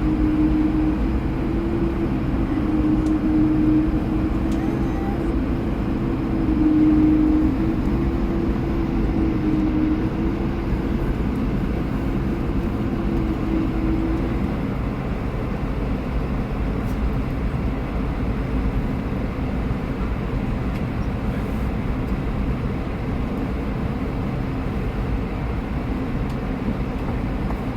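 Airliner cabin noise: the plane's engines and airflow make a steady low rumble, with a slightly wavering hum over it for about the first half.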